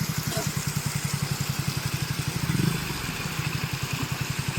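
Motorcycle engine idling, a steady rapid putter of even exhaust pulses.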